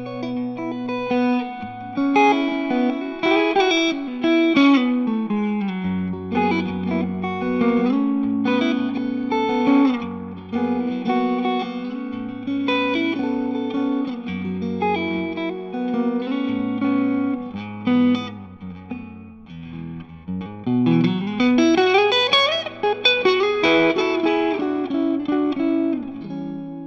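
Electric guitar music: a melody of plucked notes and chords over a sustained low bass line, with sliding string bends about two-thirds of the way in, fading out at the end.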